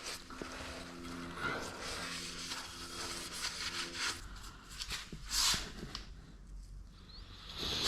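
Handling noises from work on scooter variator parts: light knocks and rubbing, with a short, louder scraping hiss about five and a half seconds in.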